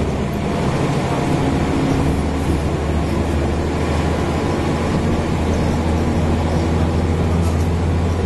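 Mercedes-Benz O405N city bus engine running under way, mixed with the steady drone of its air-conditioning. A deep low hum grows stronger about two seconds in and then holds steady.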